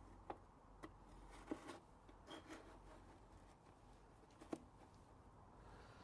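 Faint, scattered clicks and light taps, about six in all, of a new air filter being handled and pressed into a plastic motorcycle airbox, over quiet room tone.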